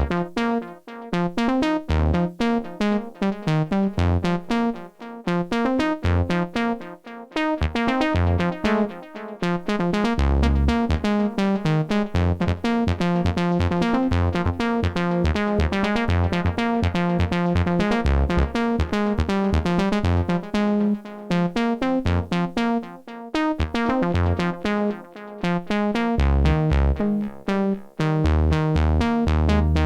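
Arturia MiniFreak synthesizer playing a preset: a quick run of short repeated notes shifting in pitch, with deep bass notes coming and going underneath.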